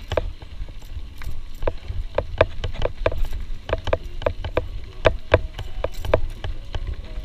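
CamelBak hydration-pack strap and drinking hose knocking against the GoPro camera, a run of irregular hollow taps about two or three a second, over a steady low rumble of riding noise.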